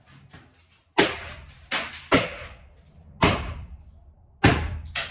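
A series of six hard bangs at uneven intervals, each dying away quickly, as something on the truck is struck or forced. A few faint knocks come before the first bang, about a second in.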